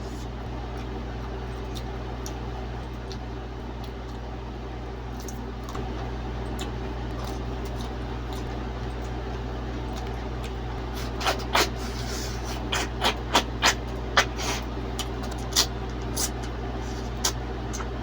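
Crisp crunching of bites into cucumber, a cluster of sharp crunches starting about eleven seconds in, over a steady low hum.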